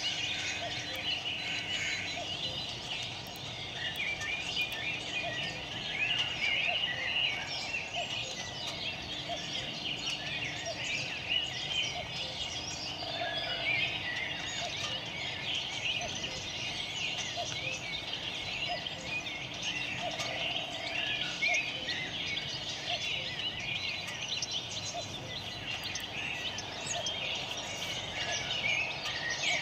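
Birds chirping and twittering continuously, many short overlapping calls.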